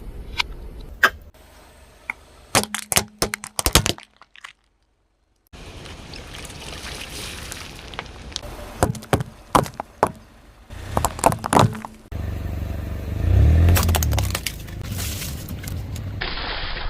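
Objects cracking and snapping under a car's tyre in several short bursts of sharp cracks, with the low rumble of the car rolling over them near the end.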